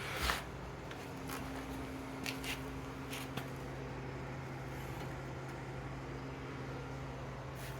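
A steady low hum with a few short, light clicks and rustles scattered through it.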